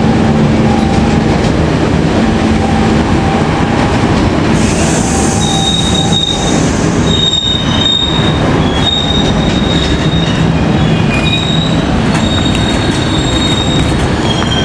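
Passenger train coaches rolling slowly past, with a steady rumble of wheels on the rails. From about five seconds in, the wheels squeal in high, thin tones that come and go, and a brief hiss sounds around the same time.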